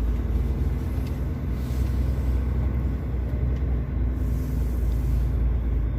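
Truck's diesel engine running at low speed as it manoeuvres, heard from inside the cab: a steady low rumble.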